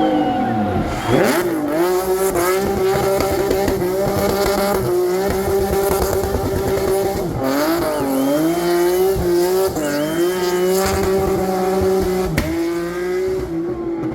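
Rally car engine held at high revs, the revs dropping sharply and climbing back about a second in, around eight seconds in and near twelve seconds in.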